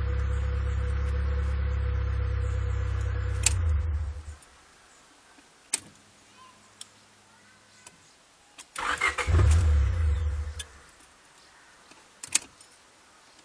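Honda Prelude 2.0-litre four-cylinder engine running steadily, then shut off about four seconds in. After a few sharp clicks, it is cranked for about two seconds, the start attempt of a car that sometimes won't start, and it does not keep running. A single click follows.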